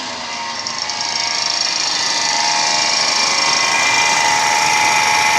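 Daihatsu Feroza 1.6i four-cylinder engine being revved under test. The revs settle back, then rise about a second in and are held high and steady. This is an engine that runs and tests good.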